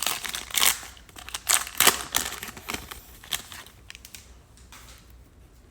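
Plastic trading-card packaging crinkling and rustling as cards are handled, in a quick run of crisp rustles that thins out and stops about two-thirds of the way through.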